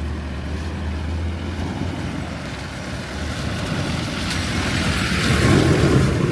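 A motor vehicle's engine hum, then a rushing noise that swells to its loudest about five to six seconds in and eases off.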